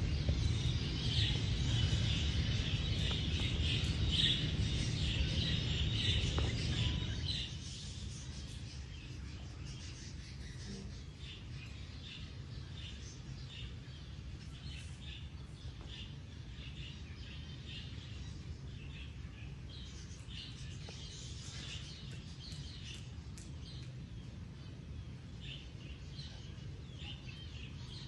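Many small birds chirping and calling over a low steady rumble. The chirping is dense and louder for about the first seven seconds, then drops to scattered short chirps.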